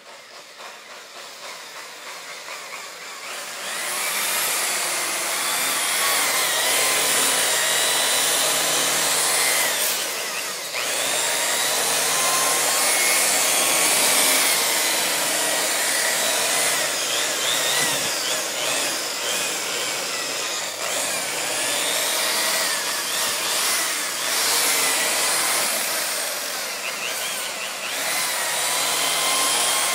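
Power buffer running on motorcycle paint with cutting compound, growing louder over the first few seconds and then holding steady, with a whine that wavers in pitch as it works. This is the compounding step that takes out water spots, scratches and swirl marks.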